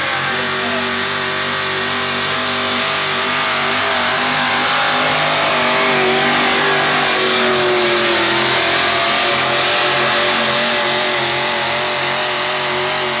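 Truck engine held at high revs under heavy load while pulling a weight-transfer sled, running steadily, its pitch sagging slightly about halfway through.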